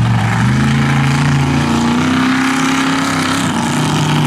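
Monster truck's big-block engine at full throttle during a timed run. It revs up, holds high, eases off briefly about three and a half seconds in, then climbs again.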